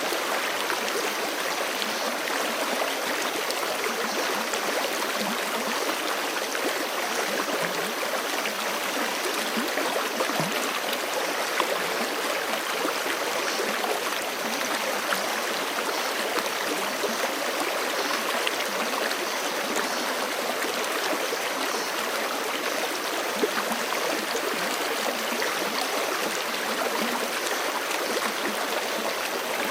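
Forest stream running over rocks: a steady rushing, babbling flow with small splashes here and there.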